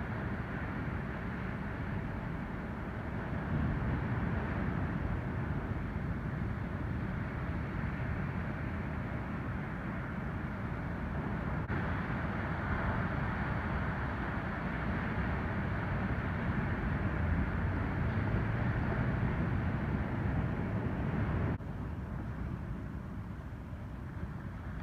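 Ocean surf from an incoming typhoon swell, waves breaking and washing in as a steady rushing noise with a deep rumble. The sound shifts abruptly twice, at splices in the recording.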